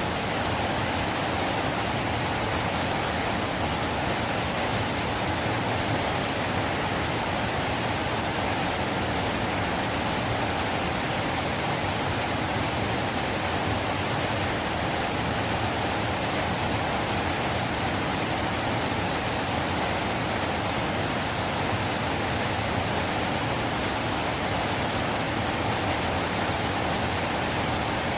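Flowing river, a steady, unbroken rush of water.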